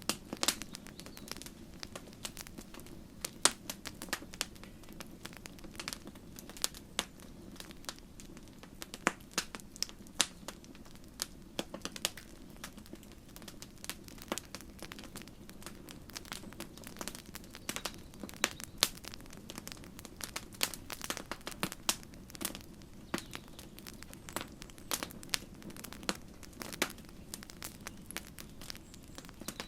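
Campfire burning, with a steady low rush of flame under irregular crackles and sharp pops from the burning wood.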